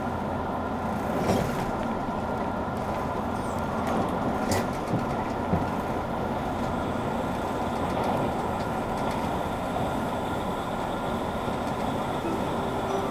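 JR Kyushu 883 series electric train running, heard inside the car: a steady rumble of wheels on rail with a few sharp clicks from rail joints. A steady electric whine, typical of its Toshiba GTO inverter drive, comes in near the end.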